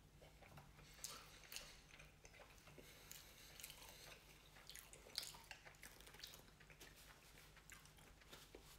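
Faint chewing of a mouthful of cheeseburger, with scattered soft mouth clicks, and a paper napkin rubbed between the hands.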